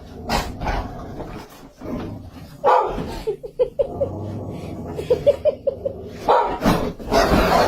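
A dog barking, with two quick runs of short, high yips in between.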